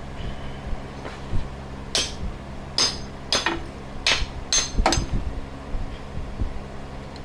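Six sharp metallic hammer strikes, irregularly spaced over about three seconds, each with a short ring. A steady fan hum runs underneath.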